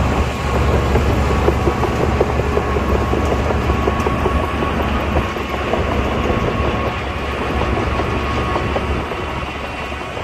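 Crawler bulldozer's diesel engine running steadily with a deep drone, its steel tracks clanking and rattling irregularly throughout.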